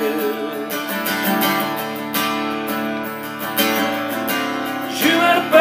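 Acoustic guitar strummed in a steady rhythm between sung lines. A held sung note tails off at the start, and the voice comes back near the end.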